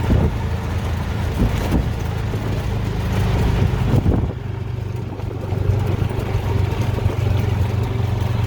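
Engine and road noise inside a moving road vehicle: a steady low drone, with a few short knocks from the ride over the road.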